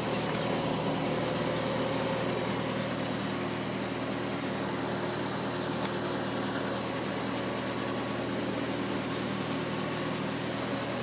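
Steady mechanical hum of a running motor or engine, even in level, with several constant low tones.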